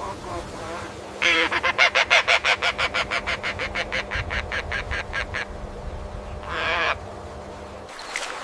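An animal calling in a fast run of repeated pulses that grows fainter over about four seconds, followed by one shorter call.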